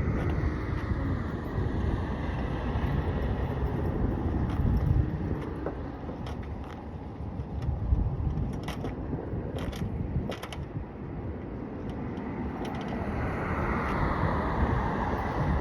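Bicycle rattling and clicking in its mechanism, with a few sharp clicks in the middle, under a steady low rumble of wind on the microphone.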